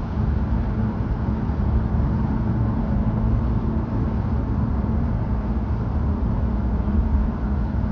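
Car driving, heard from inside: a steady low rumble of engine and tyre-on-road noise.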